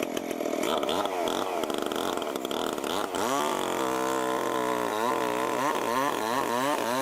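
Stihl MS 881 two-stroke chainsaw cutting into a large log at high revs, its pitch dipping again and again as the chain bites and climbing back as it frees up, with a stretch of steady full-throttle running after about three seconds.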